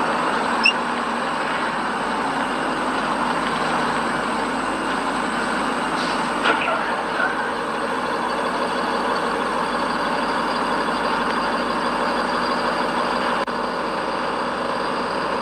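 Steady vehicle engine and road noise at an even level, with a brief faint sound less than a second in and a few more around six to seven seconds in.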